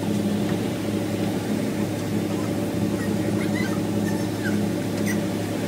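Car engine running with a steady low hum, with a few faint short high squeaks over it about three to five seconds in.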